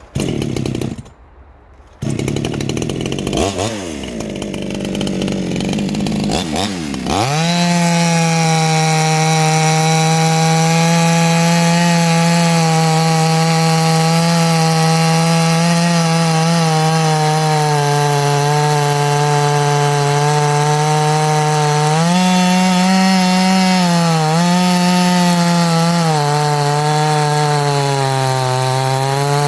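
A 58cc Chinese two-stroke chainsaw cutting a heavy hardwood log. It is revved in short bursts, then pulls down into the cut at about seven seconds. It holds a steady loaded note there, with the pitch wavering briefly near the end.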